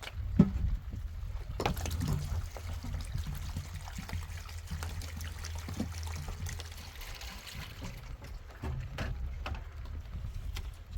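Water trickling, with scattered knocks and clicks over a low steady rumble; one sharper knock about half a second in.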